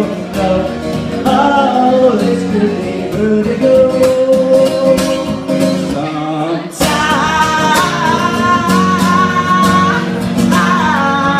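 Live indie folk band music: guitar played under a melodic lead line, with a new, higher held line coming in about seven seconds in.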